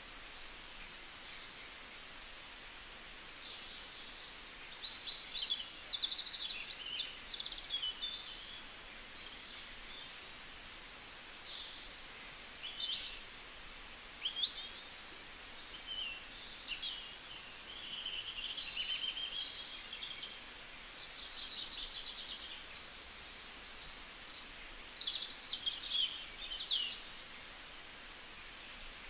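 Small birds chirping and twittering: many short, high calls and quick trills over a steady hiss.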